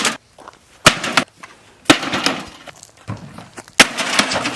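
A microwave oven being smashed: three hard blows about a second into it, near the middle and near the end, each followed by a clattering crash of breaking metal and plastic parts.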